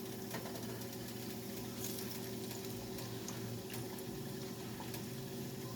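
Battered salmon frying in hot oil: a steady sizzle dotted with small crackles and pops, over a low steady hum.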